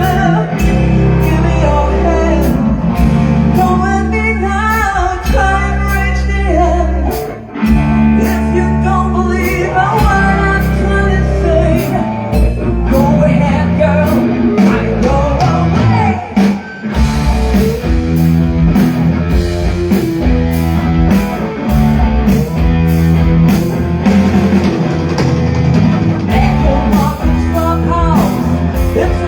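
Live rock band playing a blues-rock song: a drum kit keeps a steady beat under electric guitar, and a singer comes in with sung lines at intervals. The band drops out briefly twice, once about a quarter of the way in and again a little past halfway.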